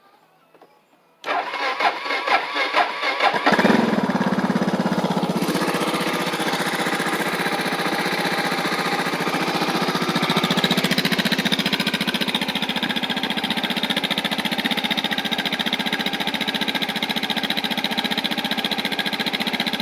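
2008 Suzuki DR650's single-cylinder four-stroke engine cold-started on the electric starter with the choke on. The starter cranks for about two seconds, then the engine catches and settles into a steady idle on choke.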